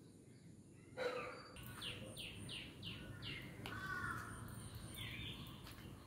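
Birds calling: a quick run of short, falling calls, about three a second, followed by softer, lower chirping.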